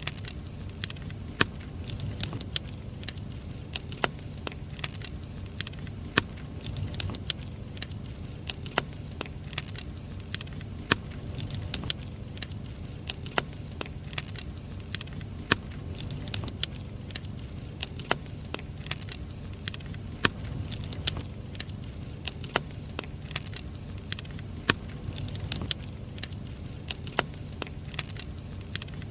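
Firewood burning: irregular sharp pops and snaps, several a second, over a low steady rumble.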